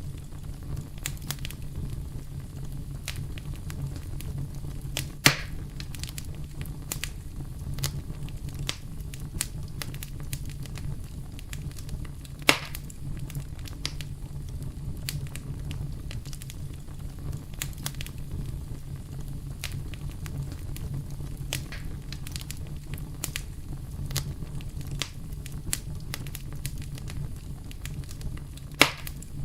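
Wood bonfire crackling steadily over a low rumble, with frequent small pops. Three louder snaps come about five seconds in, about twelve seconds in, and near the end.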